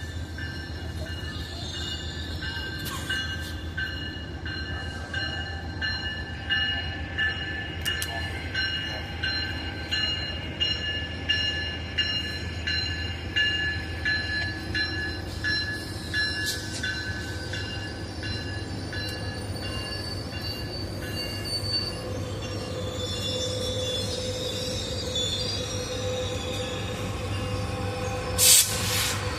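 A train rolling slowly, its wheels squealing steadily in high tones over a low rumble, with clicks about once a second. Near the end there is a brief loud burst of noise.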